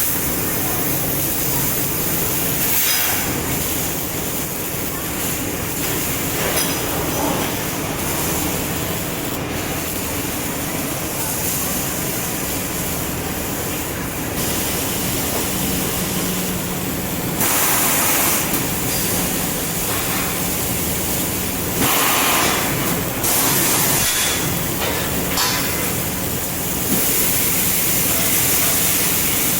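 Fiber laser cutting machine running over a steady machine hum, with repeated hissing stretches a second or more long from the assist gas blowing during cuts.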